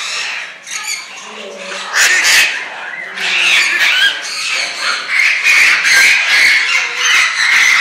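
Many birds calling at once, a dense chorus that grows louder about two seconds in.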